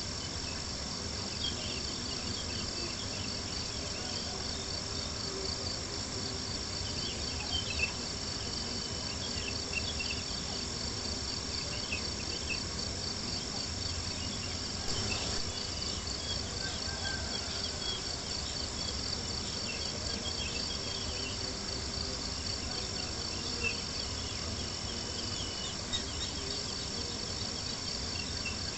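Crickets chirping in a steady, rapid trill, with scattered light crackles of a campfire underneath.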